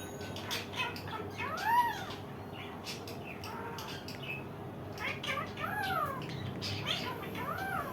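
Indian ringneck parakeet calling: three drawn-out calls that rise and fall in pitch, about two seconds in, near six seconds and near the end, with light clicks between.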